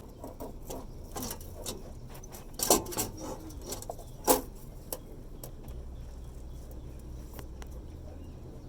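Hand tools working on exhaust hardware: scattered metallic clicks and knocks, two of them louder, about a third and halfway in.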